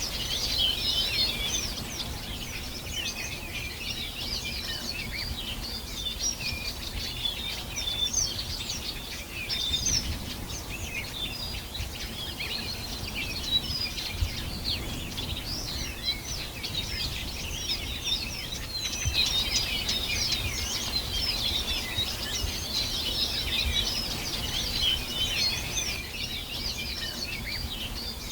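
Many songbirds chirping and trilling together in a dense chorus, busiest near the start and again in the last third, over a low rumble of background noise.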